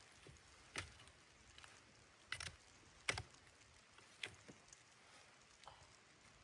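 A few faint, sharp clicks and knocks at irregular intervals, the loudest about three seconds in, over near silence.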